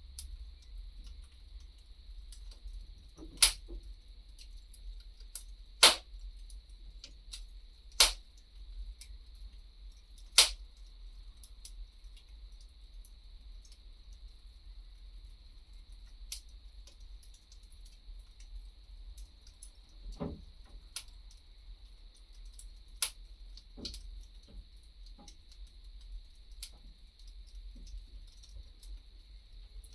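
Wood fire crackling: sparse, sharp pops, four loud ones in the first ten seconds and fainter ones after, over a soft steady hiss and low rumble.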